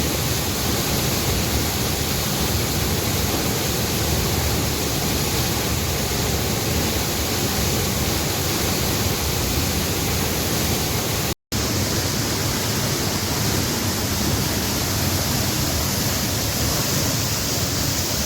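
Waterfall with a steady, loud rush of falling water. The sound drops out completely for a moment about eleven seconds in, then resumes unchanged.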